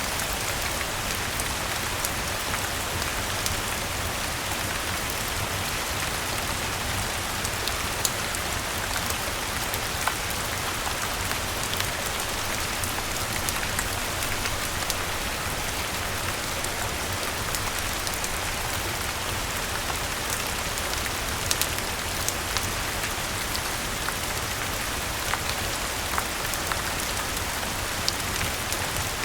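Steady rain falling, an even hiss with scattered sharp ticks of drops and a low rumble underneath.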